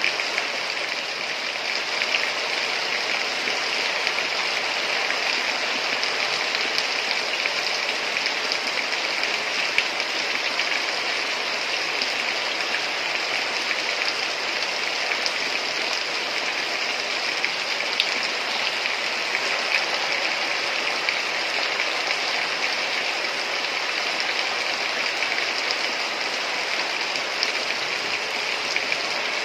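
Heavy rain falling steadily: a dense, even hiss with scattered louder drops.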